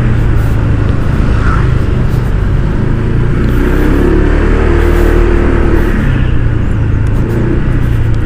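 Honda ADV 160 scooter's single-cylinder engine running steadily at riding speed, with loud wind noise on the rider's microphone.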